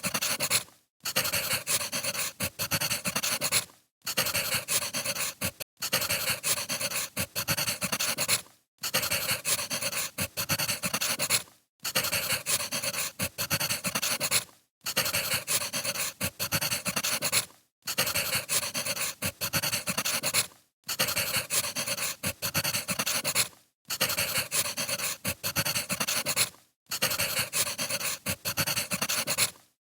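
Firewood crackling and popping as it burns, in stretches of about three seconds, each broken by a brief silent gap.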